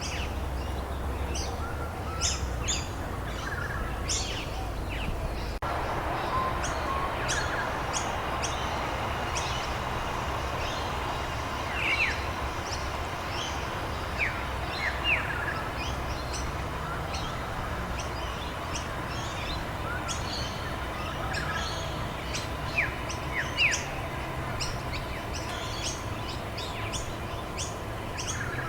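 Many small birds chirping and calling in short, quick, falling notes over a steady hiss of rain. The low background changes abruptly about five seconds in.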